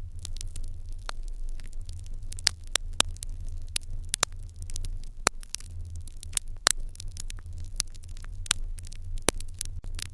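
Wood fire crackling in an irori hearth: irregular sharp pops and snaps, several of them much louder than the rest, over a low steady rumble.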